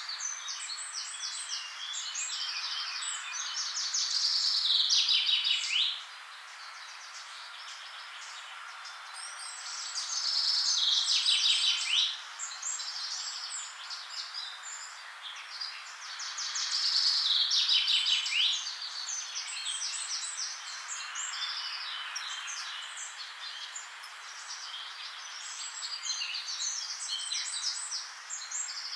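Songbird singing outdoors: a loud phrase of rapid high notes that drops in pitch at the end, repeated about every six seconds, with softer chirps filling the gaps.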